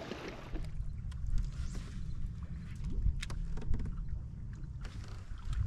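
Sounds of a fishing kayak on the water: a steady low rumble with scattered small clicks and knocks.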